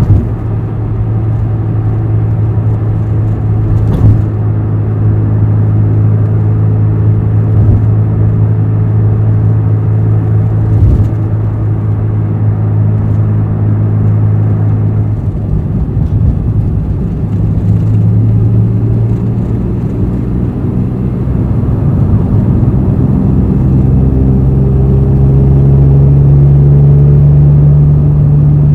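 Honda NSX's V6 engine, breathing through an all-titanium aftermarket exhaust, running steadily while driving. The note holds one pitch, dips briefly about halfway through, then climbs to a higher, louder pitch near the end. Short sharp clicks come about four and eleven seconds in.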